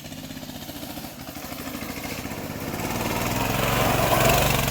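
Small petrol engine of an off-road go kart or mini bike running, growing steadily louder as it approaches.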